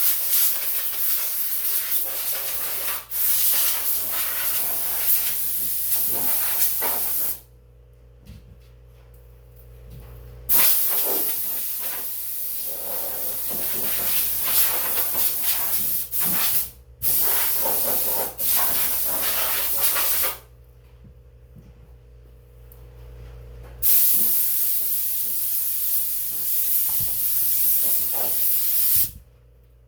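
Compressed-air blow gun hissing as it blows loose dirt off the stump grinder. It comes in three long blasts of several seconds each, each with brief let-offs, and every blast starts and stops abruptly.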